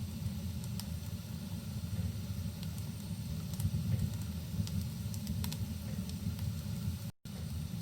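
Wood fire crackling with scattered sharp pops over a steady low rumble and hiss of rain. The sound drops out completely for a split second about seven seconds in.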